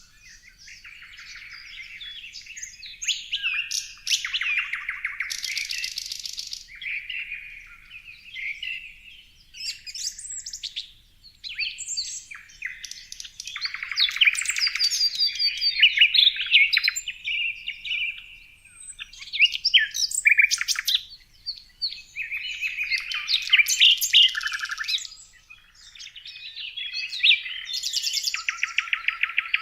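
Songbirds chirping and singing without pause, several calls overlapping, with bursts of rapid trills and short whistled notes.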